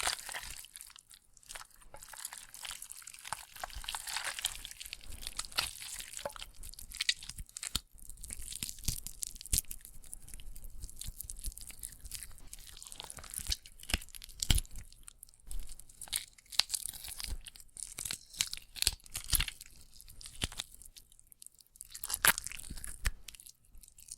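Meat sound effect: raw meat being handled, making an irregular crackle of sharp clicks and noisy rustles with louder strokes here and there.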